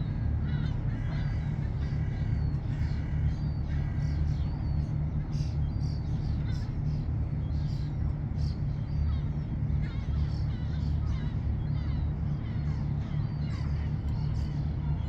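Waterfront ambience: a steady low rumble with birds calling over it in many short, scattered calls.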